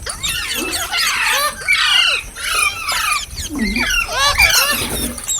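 Green parrots chirping in rapid, overlapping calls that sweep up and down in pitch, with no break.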